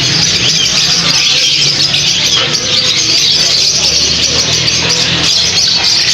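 Many small birds chirping and chattering together without a break, over a steady low hum.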